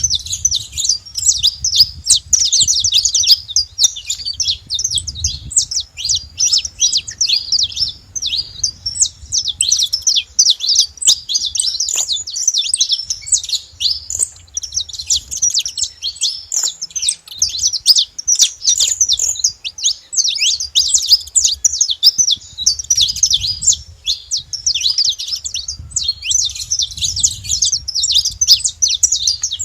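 A flock of saffron finches calling together: a dense chatter of many short, overlapping high chirps with no break.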